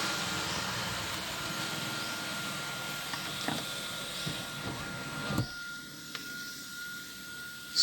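MG Astor's electric sunroof motor running as the panel slides shut: a steady motor hum that stops with a soft knock about five seconds in as the sunroof closes.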